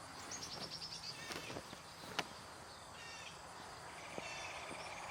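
Small songbirds singing rapid trills over steady outdoor hiss: a high trill falling in pitch about half a second in, and lower, steadier trills near the middle and end. A few sharp clicks stand out, one loudest a little after two seconds.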